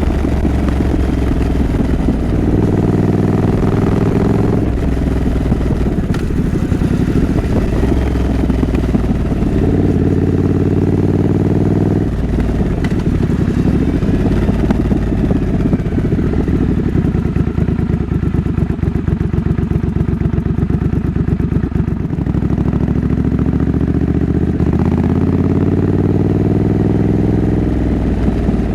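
Triumph Scrambler 900's parallel-twin engine heard while riding. It runs at steady revs with a few pitch steps, drops to a low pulsing beat off the throttle for several seconds in the middle, then revs up twice near the end.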